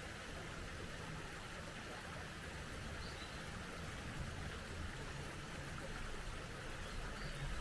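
Small mountain stream running steadily, an even rushing of water, with a faint bird chirp or two high above it.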